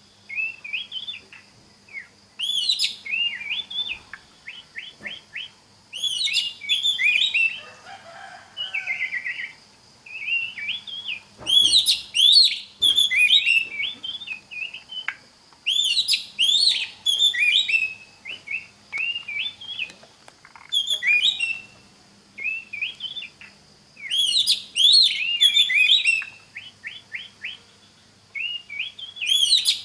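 Oriental magpie-robin (kacer) singing: varied phrases of clear whistles and rapid trills, each burst a second or two long with short pauses between, over a faint steady high tone.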